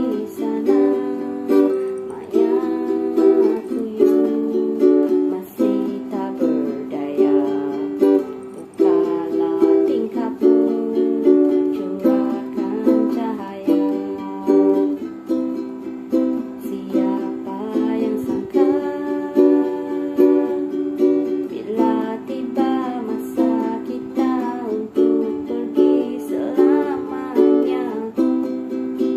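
Ukulele strummed in a steady rhythm, playing a song's chord progression with chords changing every few seconds.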